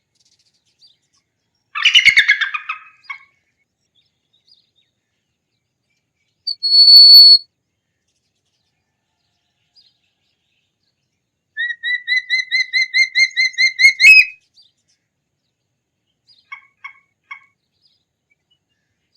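Hawk calls spaced out by pauses: a harsh screech about two seconds in, a single clear whistle near seven seconds, then a quick run of repeated sharp calling notes, and three faint short notes near the end.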